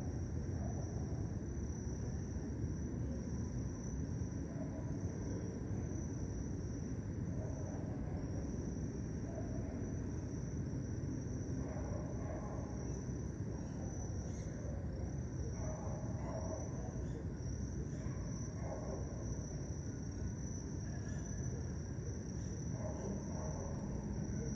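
Crickets chirping in a continuous high-pitched trill, over a steady low rumble.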